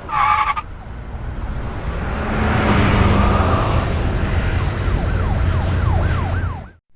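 A brief horn blast, then a swelling rush of vehicle and road noise. Near the end an emergency siren joins in, yelping up and down about three times a second, and all of it cuts off abruptly.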